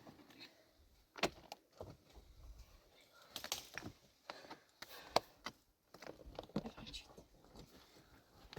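Irregular sharp knocks and clatters of hard objects, loudest about a second in and about five seconds in.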